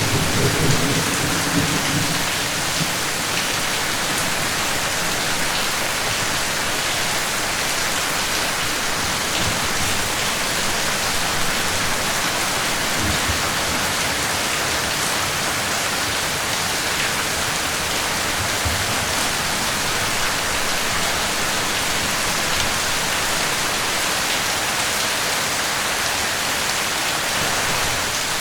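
Steady rain falling, an even hiss throughout. A low rumble of thunder dies away in the first couple of seconds.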